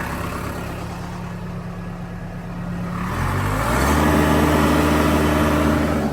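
Case 580L backhoe's four-cylinder diesel engine idling steadily, then revved up about three seconds in and held at a higher speed, running louder.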